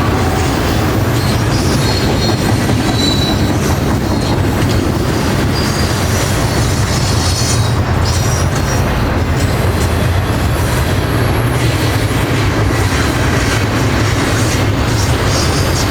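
Freight train rolling past: a steady heavy rumble of wheels on rail, with short high wheel squeals a few times.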